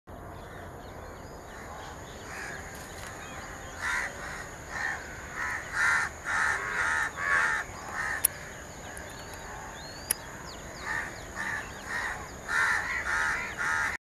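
Harsh bird calls, short and repeated about twice a second in two runs, the first from about four seconds in and the second from about eleven seconds in, with faint chirps of small birds and two sharp clicks between the runs.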